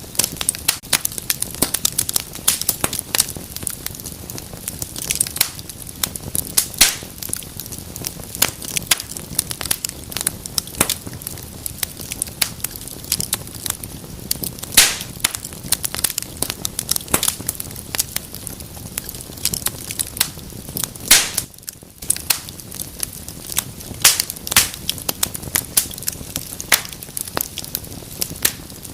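Fire in a fireplace crackling, with many irregular sharp pops and snaps over a soft hiss, easing briefly about three-quarters of the way through.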